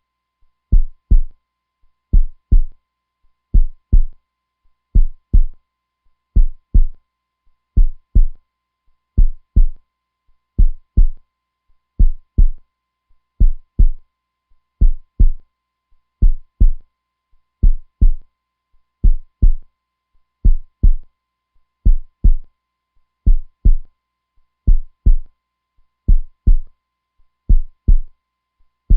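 Heartbeat sound: deep paired lub-dub thumps repeating steadily, one double beat about every second and a half.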